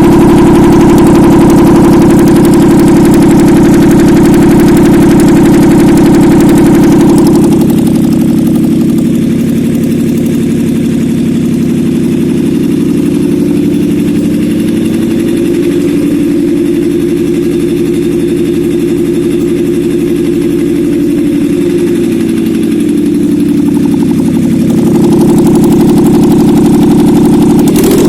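Suzuki K6A 658 cc three-cylinder engine running on a test stand: louder and higher for the first several seconds, then settling to a lower, quieter running speed, and picking up again near the end.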